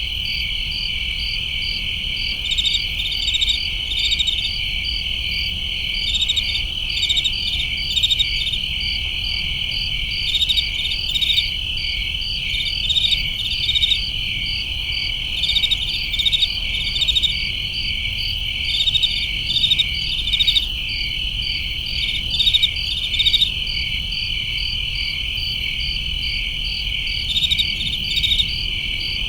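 A chorus of crickets and other summer insects chirping: a steady high trill with rapid, evenly spaced chirps over it, and louder clusters of chirps every second or two.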